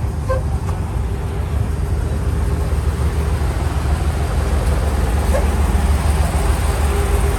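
Large vehicle's engine running with a steady low rumble and hum, growing a little louder near the end.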